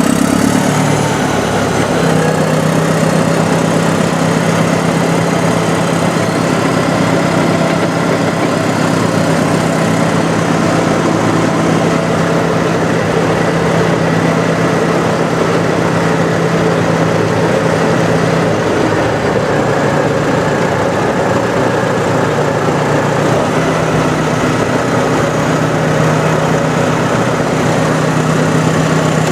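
Heavy diesel engine of Caterpillar earthmoving machinery running steadily under work, its engine note shifting slightly about two-thirds of the way through.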